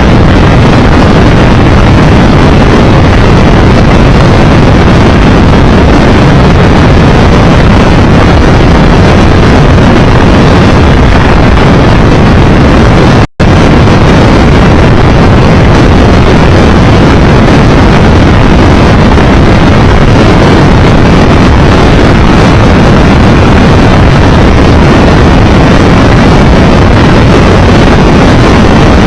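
Steady, very loud rush of wind buffeting the microphone, mixed with the running of a Triumph Tiger Explorer 1200's three-cylinder engine, ridden at speed. The sound cuts out for an instant about 13 seconds in.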